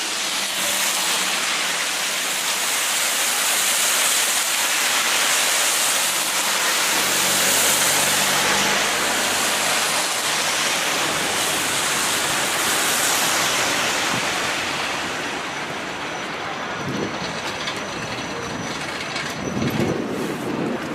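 A vehicle passing by, a steady rushing noise that builds, holds, then fades away about two-thirds of the way through. A few dull thumps come near the end.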